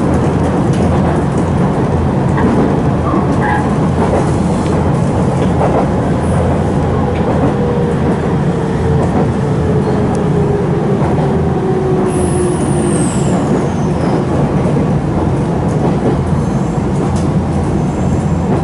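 Running noise of a Nankai 2300 series electric train heard from inside the carriage: a steady rumble of the wheels on the rails. Midway through, a tone slowly falls in pitch.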